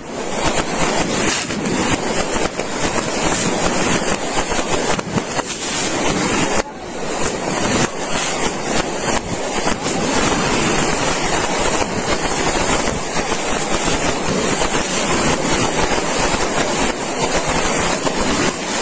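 A long, dense run of small firework bangs crackling in rapid succession without a break, with a brief dip about six and a half seconds in.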